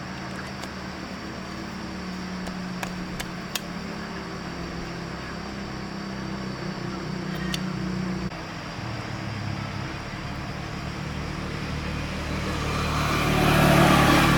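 A small engine running steadily, with a few sharp clicks. About eight seconds in its pitch drops, and near the end a louder rushing swell builds up.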